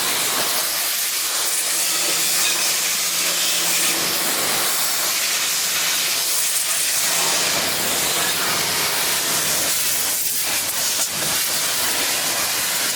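Pressure washer spraying water into an engine bay: a loud, steady hiss of the jet, with a faint steady hum underneath.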